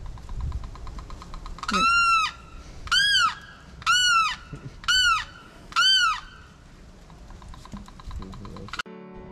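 A bird calling five times, about a second apart: each call a loud, clear note that rises and then falls.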